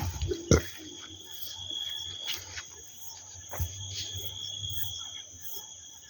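Crickets trilling steadily at two high pitches, with a few sharp clicks, the loudest about half a second in.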